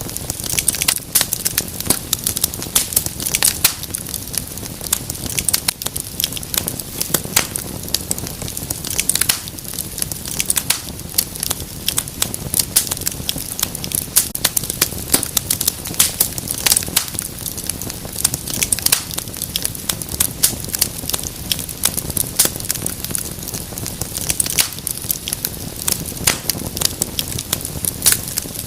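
Wood fire crackling in a fireplace: a dense, irregular stream of sharp pops and snaps over a soft steady low rush of burning.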